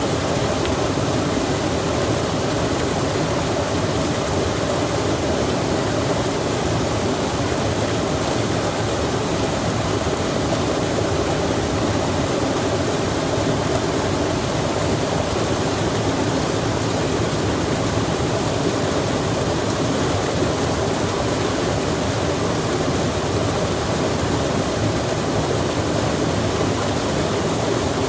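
Steady rushing of running water, even and unchanging in level, with no separate sounds standing out.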